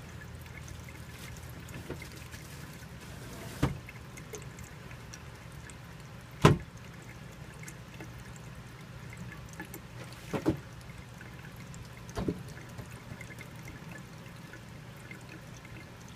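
Water running steadily from a faucet, with a few sharp knocks and bumps. The loudest knock comes about six and a half seconds in, and a quick double knock comes near ten and a half seconds.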